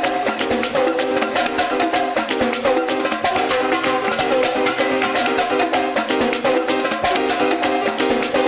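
Music: a plucked string instrument strummed in a fast, even rhythm, with little bass.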